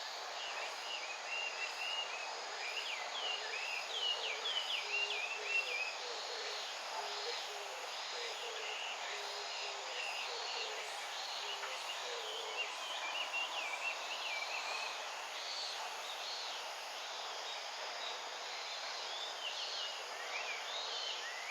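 Small birds chirping in many short, quick calls over a steady outdoor hiss, the chirps thickest in the first few seconds, again in the middle and near the end.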